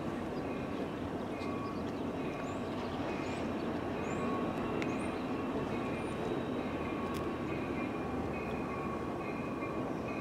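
Freight train led by a Union Pacific SD70M diesel locomotive approaching from a distance: a steady low rumble with faint steady whines above it.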